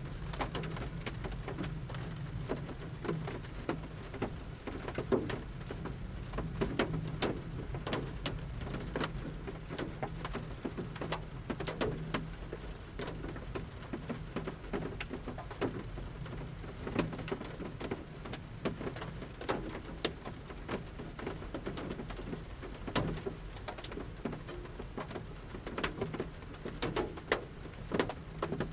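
Light rain and large drops from the forest canopy falling on the metal roof of a camper van, heard from inside: a steady low patter with irregular sharp drop hits.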